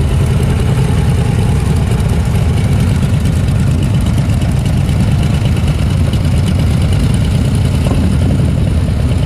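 A motor vehicle engine idling steadily and loudly, a low even rumble with no revving.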